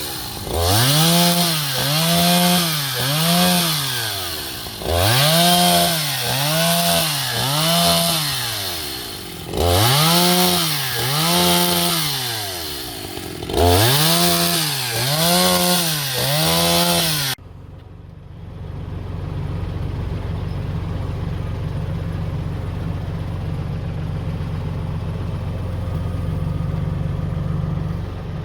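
Small gas engine revving up and falling back in a steady rhythm, about once a second, in four runs with short breaks. About seventeen seconds in it cuts abruptly to a steady, lower engine idle.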